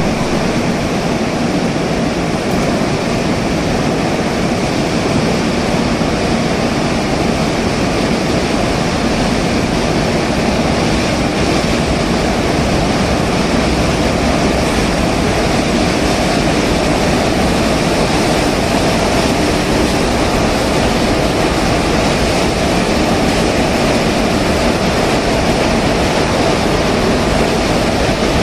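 Goods train running slowly into a station: the locomotive's steady running noise, followed by the covered goods wagons rolling past on the rails, as one continuous, even din.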